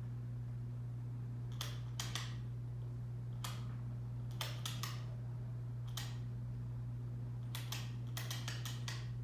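Monte Carlo ceiling fan running on high: a steady low motor hum with a dozen or so sharp, irregular clicks, some in quick clusters.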